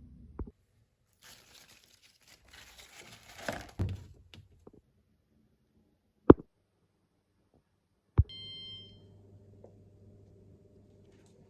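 Kitchen handling sounds: rustling and crinkling of packaging, a sharp click, then a thud with a one-second electronic beep, after which a steady electric hum starts as an appliance begins running.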